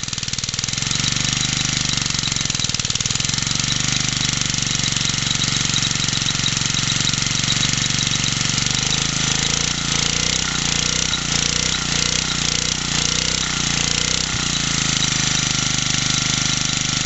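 Small 50cc BSA four-stroke stationary engine running steadily, driving its dynamo, shortly after a cold start; its speed wavers up and down for a few seconds around the middle.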